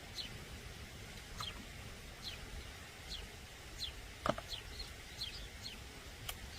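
Small birds chirping: short, high, falling chirps about once a second, over a low outdoor rumble, with a single sharp knock about four seconds in.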